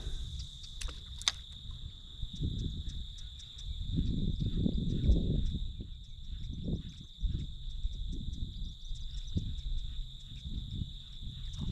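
A steady, high-pitched insect trill, like crickets, runs throughout. Under it is an uneven low rumble that swells and fades, loudest around the middle.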